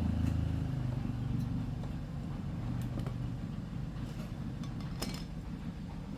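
A small engine running steadily with a low, even drone, loudest in the first second, with light clicks and taps over it.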